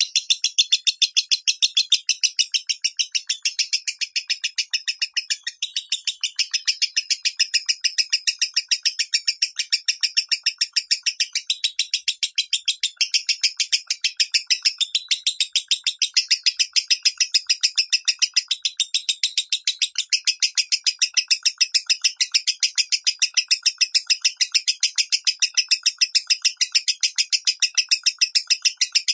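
Lovebird singing a long, unbroken chattering song of rapid, evenly repeated chirps, in the voice type that Indonesian keepers call 'minor'.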